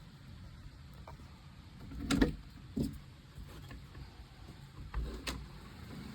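Thunderstorm: a low, steady rumble of thunder with a few short, sharp cracks, the loudest about two seconds in and another near the end.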